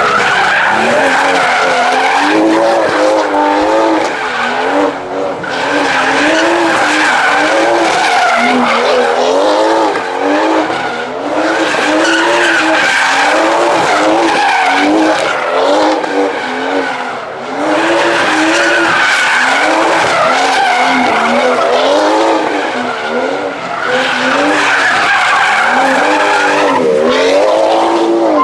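A car drifting, engine held at high revs with its pitch rising and falling in a steady cycle about once a second, over continuous tyre screech. Brief dips come every few seconds, as if the car swings round in circles.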